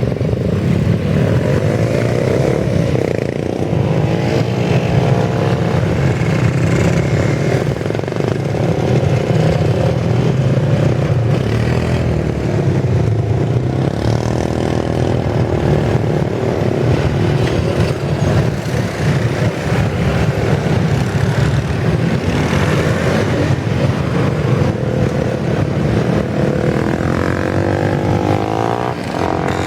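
Several motorcycle engines running and revving as the bikes pull away one after another, their pitch rising and falling over and over.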